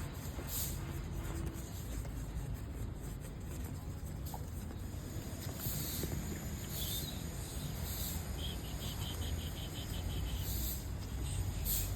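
Outdoor ambience: insects chirping in short high bursts over a steady low rumble, with a quick run of about ten short chirps a little after the middle.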